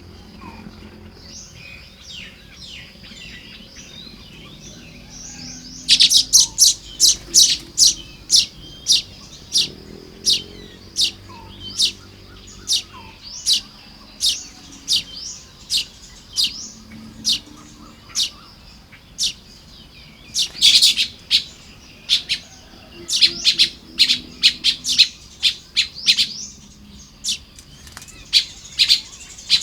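Baya weavers at their nests chattering: softer calls at first, then from about six seconds in, loud runs of sharp, rapid chip notes with short pauses between them.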